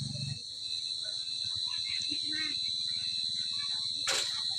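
Crickets chirping in a steady, high-pitched night chorus, with a sharp click about four seconds in.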